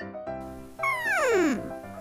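Background children's music with sustained chords, and about a second in a single sound-effect tone that slides steadily downward in pitch for nearly a second.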